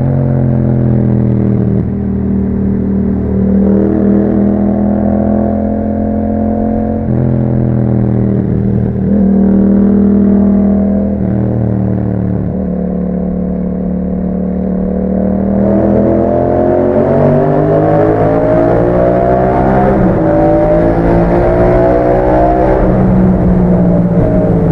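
Yamaha MT-07 parallel-twin engine through an Akrapovic exhaust, under way. Its pitch rises and drops again and again as it accelerates and shifts through the gears, and it pulls harder with a louder, climbing note in the last third.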